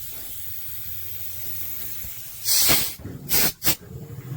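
Sediment Buster water heater flush tool firing bursts of air into the drain line to dislodge a sediment clog: a loud hiss about half a second long, then two short hissing blasts in quick succession near the end.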